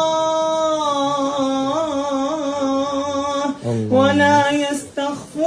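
A reciter's voice chanting a Quranic verse in melodic tajwid style. It holds one long drawn-out note for about three and a half seconds, breaks briefly, and then starts a new phrase.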